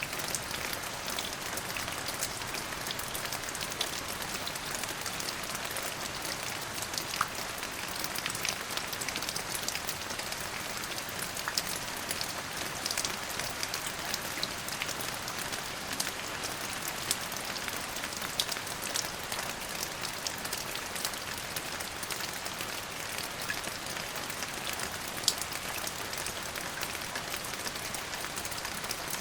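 Steady rainfall: an even hiss of rain with many sharp, close drop impacts scattered through it.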